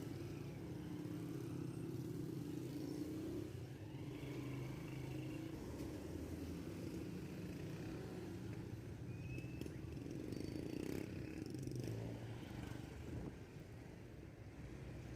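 Steady low rumble of vehicle engines and road traffic, with a few faint short higher tones, easing off slightly near the end.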